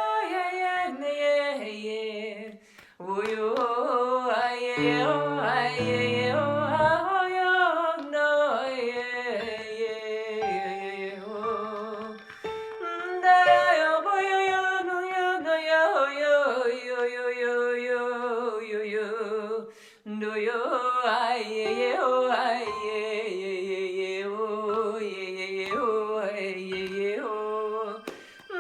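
A woman's voice singing wordless, gliding and held tones in an improvised vocal toning, breaking off briefly a few times. A short low sustained tone sounds under the voice about five seconds in.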